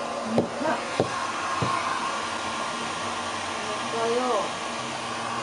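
Hair dryer blowing steadily with an even rushing hiss and hum while drying a long-haired cat's wet fur. A few sharp clicks in the first couple of seconds and two short rising-and-falling voice-like calls, one early and one about four seconds in, sound over it.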